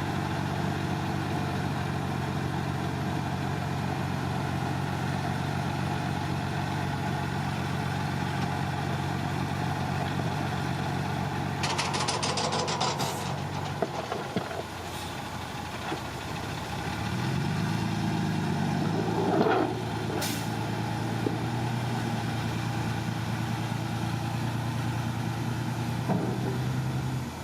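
Heavy dump truck's diesel engine running steadily, with a rapid rattle about twelve seconds in. The engine then revs up around eighteen seconds, and a short hiss follows.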